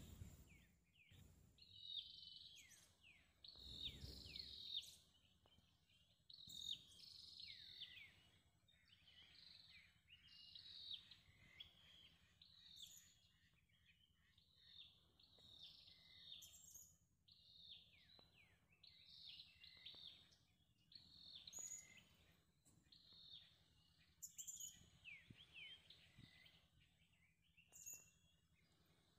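Faint birdsong: short phrases of high, falling whistles repeated every second or two, with a low thump about four seconds in.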